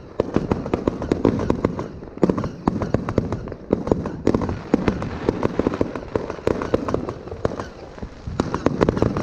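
Fireworks going off in a dense, continuous barrage: many overlapping bangs and crackles several times a second, with a low rumble underneath.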